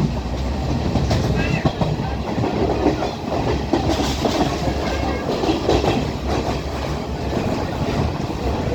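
Class S12 train running along the line: a steady rumble with the wheels clacking over the rail joints.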